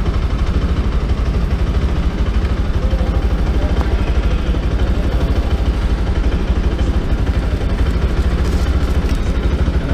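Kawasaki sport motorcycle engine idling steadily with the bike standing still, a fast, even low pulse.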